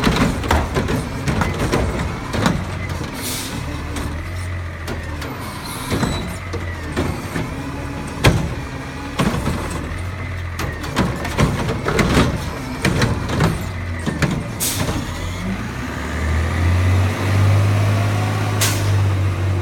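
Garbage truck's diesel engine running steadily, with repeated metal clanks and knocks and a few short hisses of air from the brakes. The engine speeds up and grows louder near the end.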